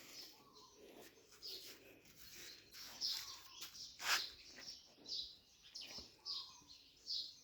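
Small birds chirping faintly, short high chirps repeating irregularly, with one sharper click about four seconds in.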